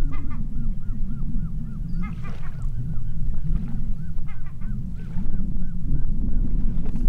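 A bird calling in a rapid series of short, rising-and-falling notes, about three to four a second with brief pauses, over a steady low rumble.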